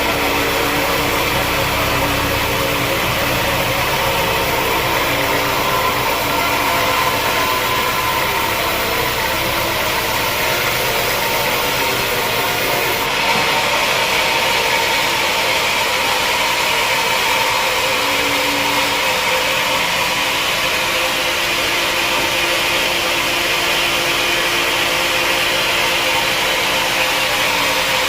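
Sawmill machinery running steadily. A deep low hum fades out about ten seconds in, and a brighter hissing noise picks up about halfway through.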